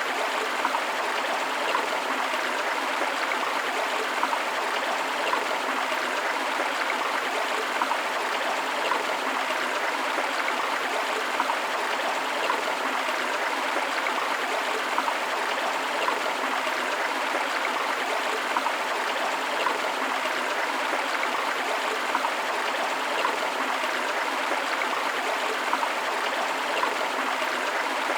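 Forest river water running steadily: an even rush of flowing water with many small, quick rises in level and little deep rumble.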